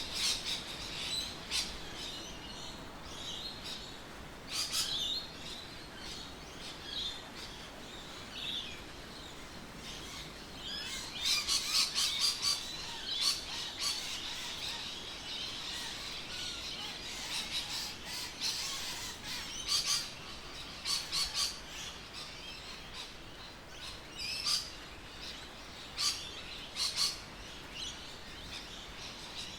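Several birds chirping and calling: many short, high calls, busiest near the middle, over a faint steady background hiss.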